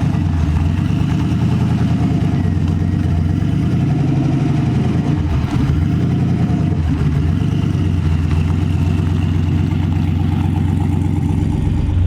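Turbocharged LS V8 engine in a drag truck running at low revs, its pitch wavering up and down.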